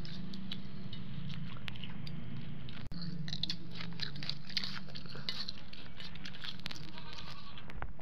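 Close-up chewing and crunching as someone eats small fish with rice, many quick clicks and crackles over a steady low hum. The sound cuts out for an instant about three seconds in.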